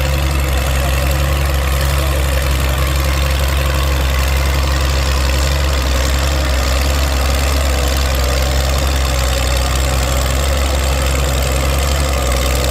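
Antique Oliver tractor's engine running steadily with a deep, even drone while pulling the weight sled down the track.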